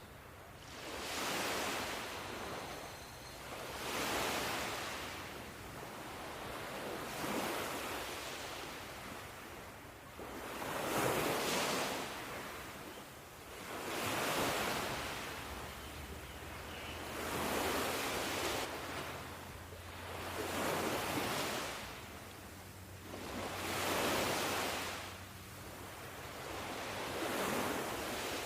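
Ocean waves washing in, a hiss of surf that swells and fades about every three seconds.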